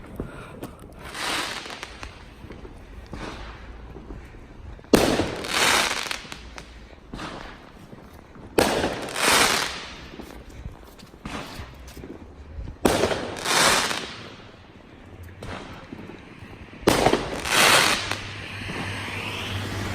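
Fireworks going off: four sharp bangs a few seconds apart, each followed by a crackling rush about a second long, with two fainter ones before them.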